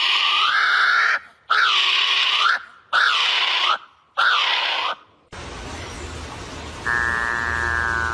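A bird's loud, drawn-out calls, four in a row of about a second each, every one bending in pitch. After an abrupt change about five seconds in, a low steady hum with a high pitched tone that starts about seven seconds in and begins to fall near the end.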